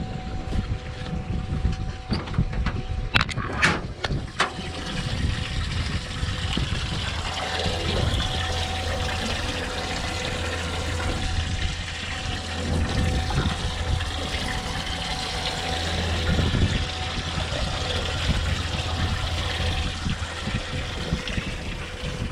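Homemade boat live well being filled by its pump: water pouring and splashing steadily into the tank, with a low hum through the middle and a few knocks about three to four seconds in.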